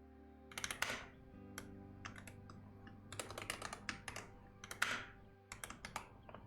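Typing on a computer keyboard in several quick bursts of keystrokes with short pauses between them, over soft background music with sustained notes.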